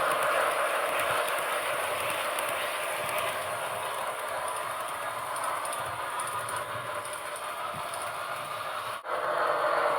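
HO-scale model train running along the track: a steady whirr of the motor and wheels on the rails, easing slightly, with a brief sharp dip about nine seconds in.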